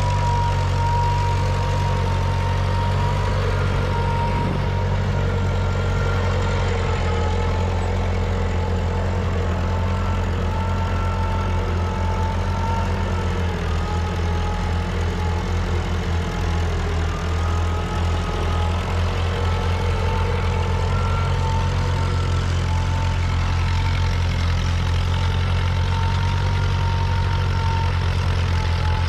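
Tractor engine running at a steady speed, with a faint high whine that wavers slightly in pitch.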